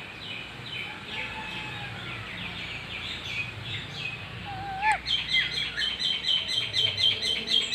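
Pet ring-necked parakeets chirping: a steady run of short chirps, a brief wavering whistle just before five seconds in, then a louder, fast series of sharp chirps.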